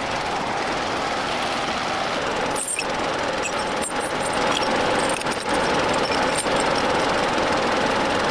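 A power tool running steadily with a loud, even mechanical noise and a faint hum, starting abruptly.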